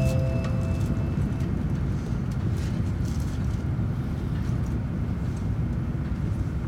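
Steady low rumble of an N700 series Shinkansen train running at speed, heard from inside the passenger cabin, with a few faint brief swishes.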